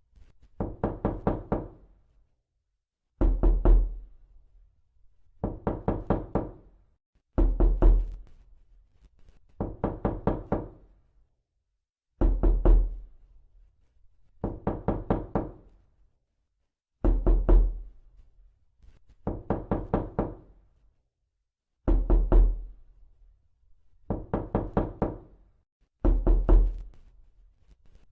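Repeated knocking in quick sets of about four to six knocks, one set about every two seconds, alternating between a heavier set and a lighter one.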